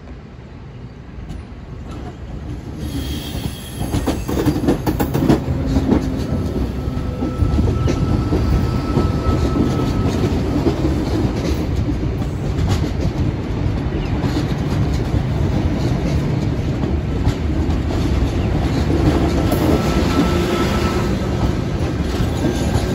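A Sydney Intercity V set, a stainless-steel double-deck electric train, drawing up and running past close by. Its wheels clatter over the rail joints and points, with a faint high whine at times. The sound swells over the first few seconds as the train nears, then holds loud and steady.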